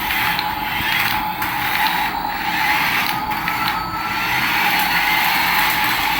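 Small electric toy motor and gears whirring steadily.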